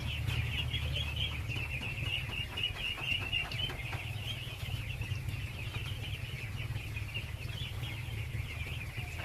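A large flock of ducklings peeping all at once, a dense chorus of high chirps, over a steady low hum.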